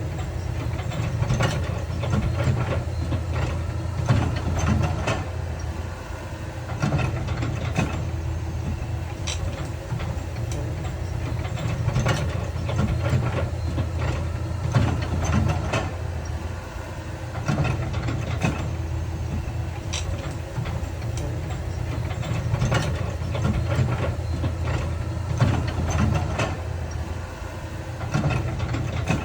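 Heavy diesel earthmoving machinery running: a steady low engine drone with frequent sharp clanks and knocks of steel and rock.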